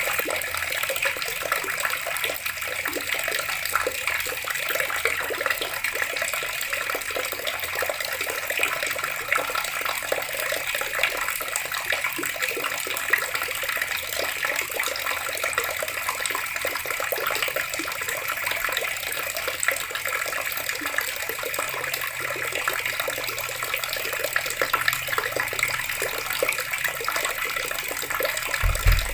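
Water running steadily from a tap and splashing, with a brief low thump near the end.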